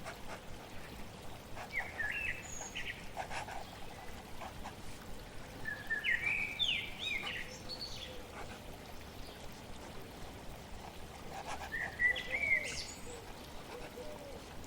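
Songbird singing in short whistled phrases, three times, about two, six and twelve seconds in, over a steady background of flowing water.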